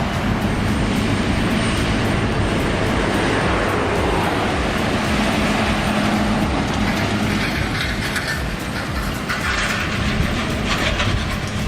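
Heavy logging truck on the road, a steady low engine and tyre rumble with a constant drone.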